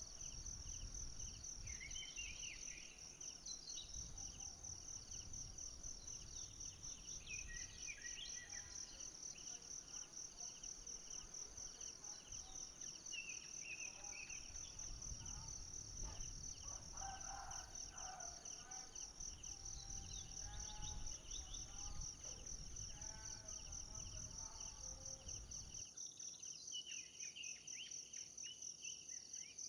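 Forest insects trilling steadily in fast, even high-pitched pulses, with scattered short bird calls. A low rumble underneath drops away near the end.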